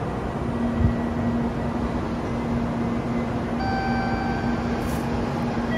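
Steady hum and rumble of a Shinkansen train standing at the platform, with a brief low thump about a second in. A steady high electronic tone joins in about three and a half seconds in.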